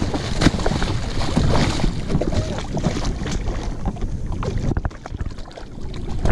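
Irregular knocks, taps and scuffing against a kayak while a large California halibut is being dispatched, with wind on the microphone.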